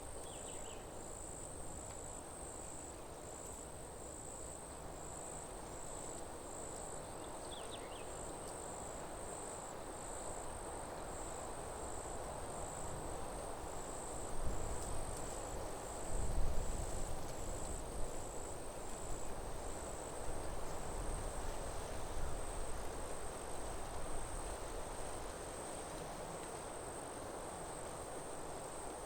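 High insect chirping, pulsing about twice a second at first and then running on as a steady trill, over a steady rush of wind through forest trees. A few low gusts of wind hit the microphone midway.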